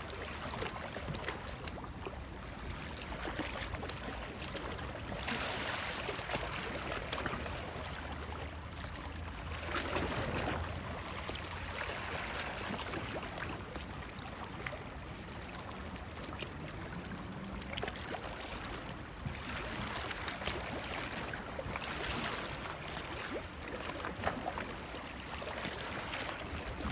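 Sea water washing and splashing, swelling and easing in several surges over a steady low rumble.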